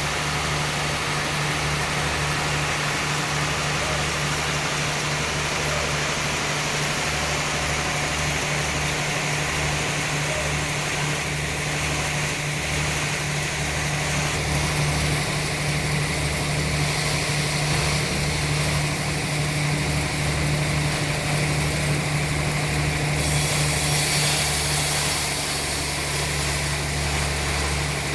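Sawmill machinery running steadily, with a constant low engine hum and a hiss on top that gets brighter about 23 seconds in.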